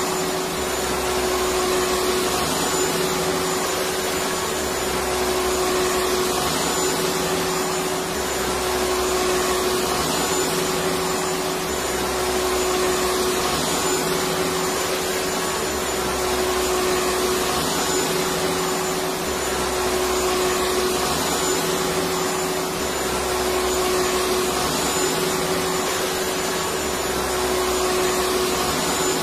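Electric vacuum cleaner running steadily: a constant rush of air with a steady motor whine, swelling gently in level every few seconds.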